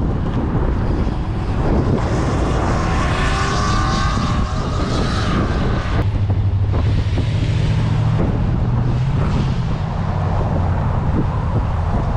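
Car engine running at a car show, rising in pitch for a few seconds and then settling into a steady low hum, with wind rumbling on the microphone.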